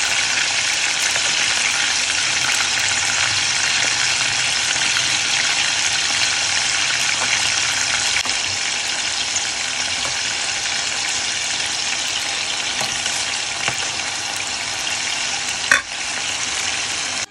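Chicken pieces marinated in tikka masala frying in bubbling hot oil: a steady, loud sizzle, with one sharp pop near the end.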